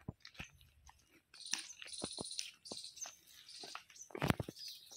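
Small birds chirping in short high calls, with scattered clicks and a louder knock about four seconds in.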